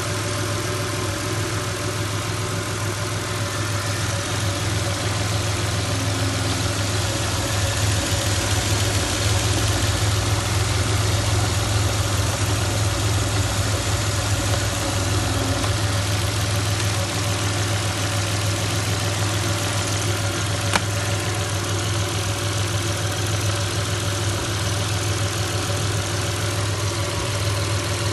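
Audi A6 3.0 V6 petrol engine (code BBJ) idling steadily, with one brief sharp click about two-thirds of the way through.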